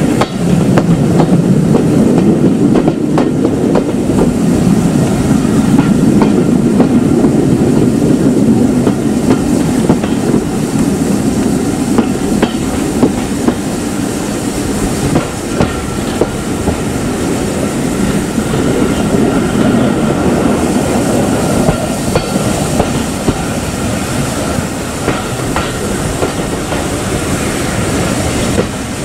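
Heritage railway train running on jointed track, a steady rumble with wheels clicking over the rail joints, easing off slightly after about ten seconds.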